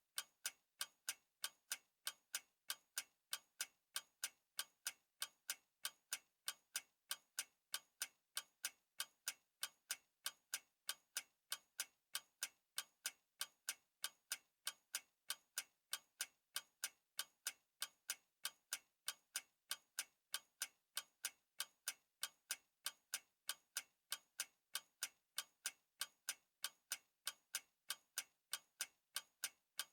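Clock ticking steadily, even sharp ticks at about two a second.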